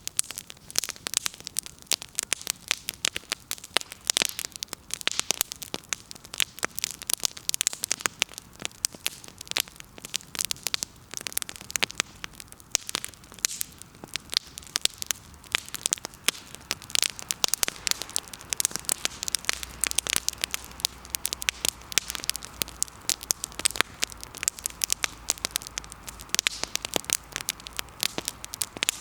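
Firewood burning in an open wood fire, crackling with a dense, irregular stream of sharp pops and snaps.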